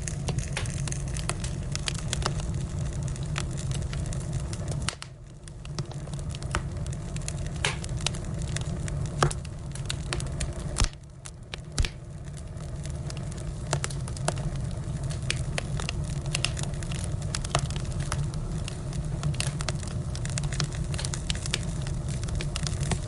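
Wood fire burning, crackling with many scattered sharp pops over a steady low rumble, and a few louder pops near the middle. The sound dips briefly twice.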